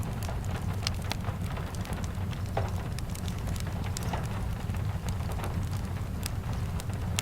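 Steady rain falling, mixed with the scattered sharp crackles and pops of a wood fire, over a low steady rumble.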